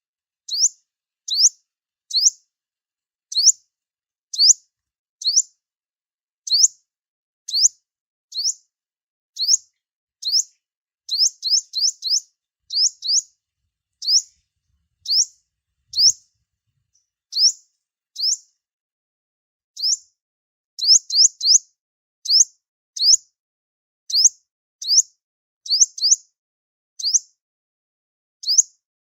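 Sunbird calling: short, high, thin chirps, each falling in pitch, repeated about once a second and now and then in quick runs of two or three.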